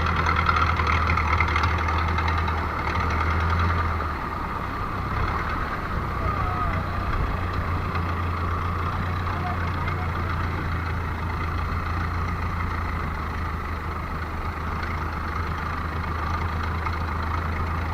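An engine running steadily with a low hum, its note dropping slightly about four seconds in.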